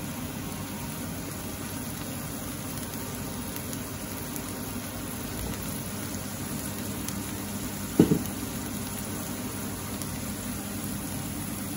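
Onions and tomato paste simmering in a wok over a gas burner, a steady sizzling hiss. A single short knock about eight seconds in.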